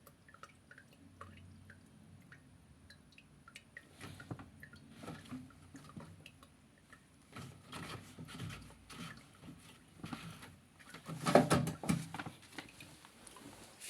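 Water dripping from a front-loading washing machine that won't drain, with irregular knocks and handling noises and a louder clatter about eleven seconds in.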